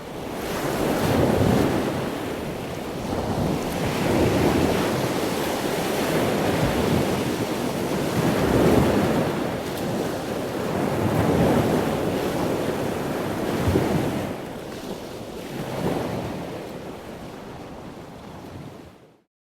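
Wind buffeting the microphone over the rush of the sea, swelling and easing every two to three seconds, then cutting off suddenly near the end.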